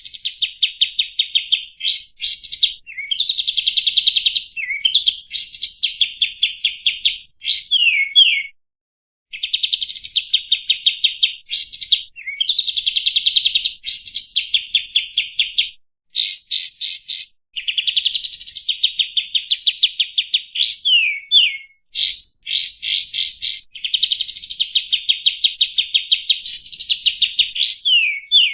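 Kapas tembak songbird singing: fast, buzzy trills of rapidly repeated notes broken by short upward-sweeping whistles, in phrases of one to four seconds with brief pauses between them.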